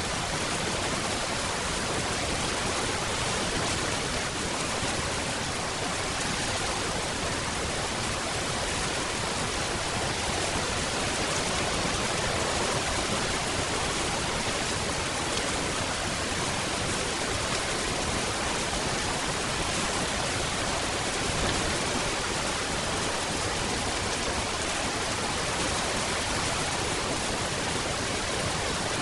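Steady rain: a dense, even hiss with no distinct drops or thunder.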